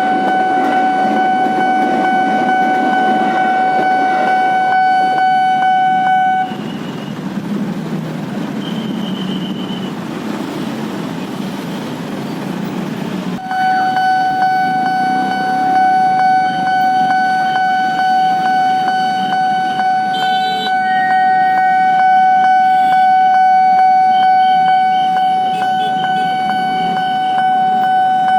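Railroad level-crossing warning alarm sounding as a steady electronic tone over the rumble of rail and road traffic. It drops out abruptly for several seconds in the middle, leaving only the rumble, then resumes. A short horn toot sounds about twenty seconds in.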